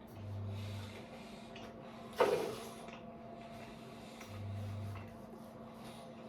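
A bite into an apple, one sharp crunch about two seconds in, with quieter chewing around it. A low buzz sounds twice, under a second each, once near the start and again about four seconds in.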